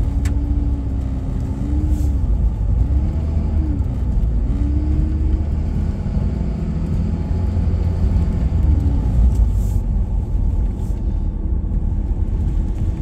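Engine and road rumble heard from inside a moving vehicle, with an engine tone that rises and falls during the first few seconds, and a few light knocks.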